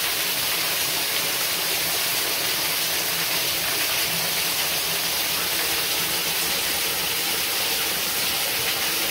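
Steady splashing of a small waterfall pouring down close to the microphone.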